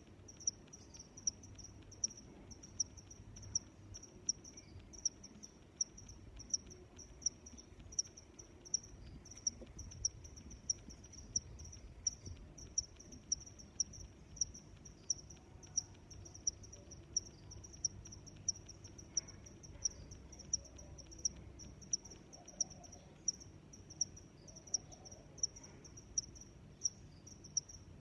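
A cricket chirping steadily in an even rhythm of short, high-pitched chirps, just under two a second.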